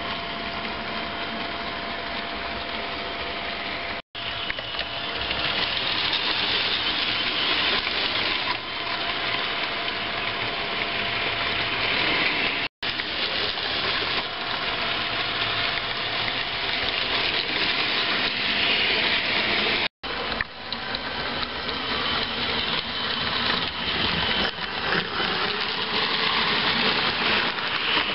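HO-scale model trains running, a steady whirring of small electric motors and wheels on the rails. It breaks off abruptly three times where the footage is cut, and is a little louder after the first break.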